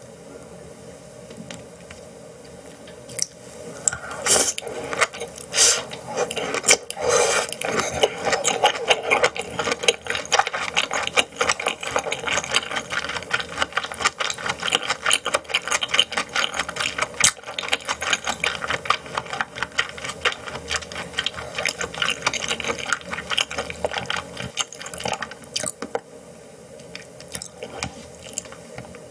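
Close-miked chewing of raw yellowtail sashimi: dense, rapid wet mouth clicks and smacks. They start about four seconds in and ease off near the end.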